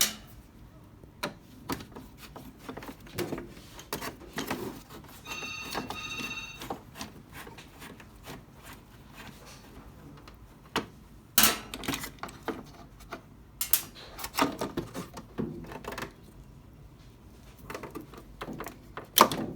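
Scattered clicks and knocks of plastic and metal parts being handled while the lid lock of an LG top-load washing machine is worked out, with a few sharper knocks about halfway through. Two short electronic beeps sound about five seconds in.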